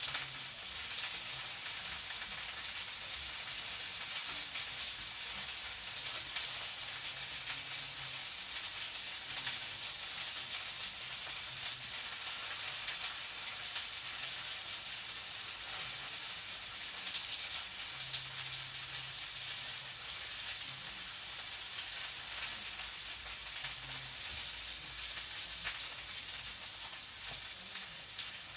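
Food frying in a pan: a steady sizzle with fine crackling.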